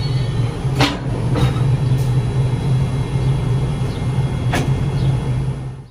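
Steady low hum of a stopped commuter train heard from the railcar's vestibule. Several sharp clicks and clunks come through it as the side door opens, and the sound cuts off at the end.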